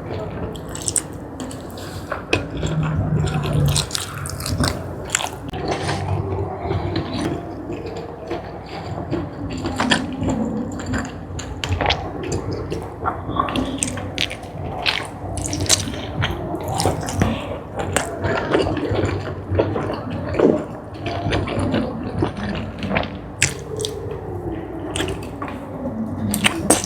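Close-miked eating of spicy jumbo squid: continuous wet chewing with frequent irregular mouth clicks and smacks.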